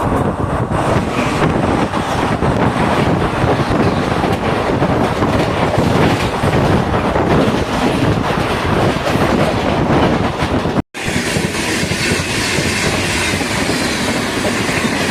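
Jhelum Express passenger train running, its wheels clattering over the rail joints, loud and steady. About eleven seconds in the sound breaks off for an instant, then carries on with a higher hiss of wheels on the rails.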